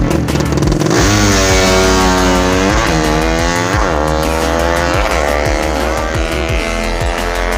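A 200cc motorcycle engine revving hard about a second in, its pitch rising and falling in several blips, over background music with a steady beat.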